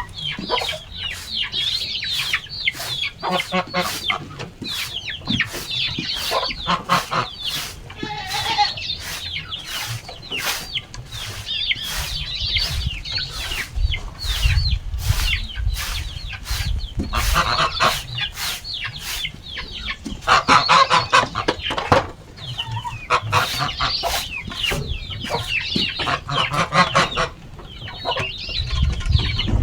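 A flock of chickens clucking and calling throughout, over a steady run of short scraping strokes about three times a second as droppings are cleared from their feeding area.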